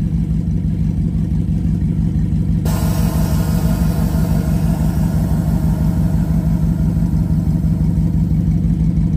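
Audi R8's 4.2-litre V8 idling steadily through an AWE Track exhaust. A little under three seconds in, a steady hiss starts suddenly and keeps on over the idle: the air suspension letting air out as the car is lowered.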